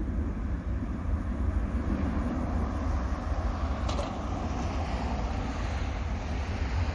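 Airbus A319 airliner on approach to land, its jet engines a steady low rumble, with a faint click about four seconds in.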